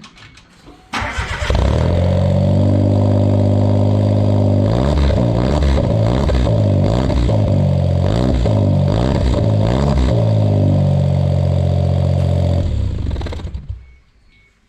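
Suzuki Jimny JB23W's 660 cc turbo three-cylinder engine starting through a freshly fitted J-FORCE short bullet aftermarket muffler. It settles into a steady idle, is revved in a series of short blips mid-way, drops back to idle and is switched off near the end.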